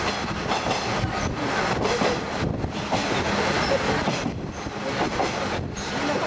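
Ride noise heard aboard an open-window trolley-style diesel railcar running along the line: wheels on the rails with irregular clicks and clatter, under steady wind and running noise.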